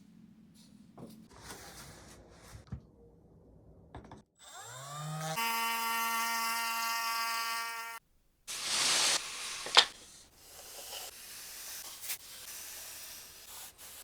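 Small electric trim router switched on: its motor whine rises quickly to speed about four seconds in, runs steadily for a few seconds, then cuts off abruptly. A loud rushing burst with a sharp click follows, then softer rustling noise.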